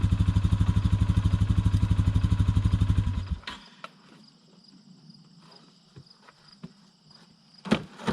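Single-cylinder motorcycle engine, Honda CRF250L Rally, idling with an even rapid pulse, then switched off about three seconds in. Afterwards faint insects chirp steadily, with a couple of sharp knocks near the end.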